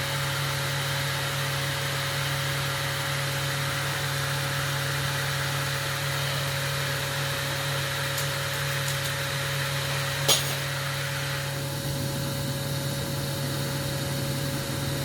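Steady hiss of a glassblower's gas burner over the even hum of a running workshop machine. A sharp click comes about ten seconds in, and about a second later the hiss drops off while the hum goes on.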